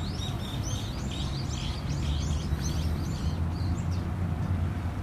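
Small birds chirping busily, many quick calls overlapping, over a steady low rumble; the chirping thins out after about three and a half seconds.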